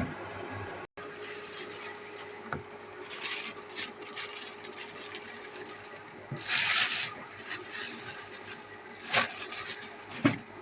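Rustling and rubbing handling noises in several short bursts, the longest about two-thirds of the way in, with a few sharp clicks, over a low steady hum.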